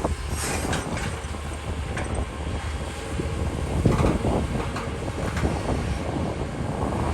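Doosan excavator running with a steady low engine hum and scattered clanking and rattling, louder for a moment about four seconds in.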